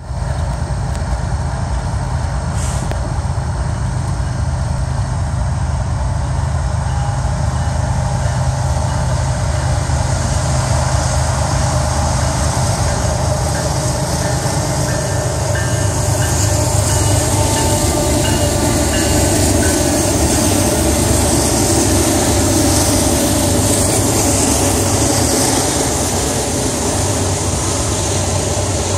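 BNSF freight train passing: the GE diesel locomotives' engines drone as they come closer and go by, then the freight cars' wheels keep up a steady rumble on the rails.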